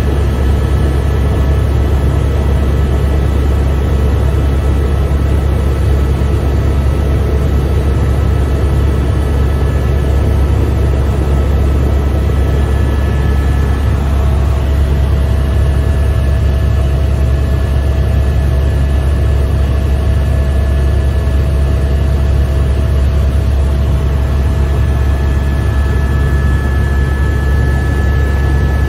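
Helicopter in flight heard from inside the cabin: a loud, steady low rotor drone with a steady high whine from the drivetrain over it.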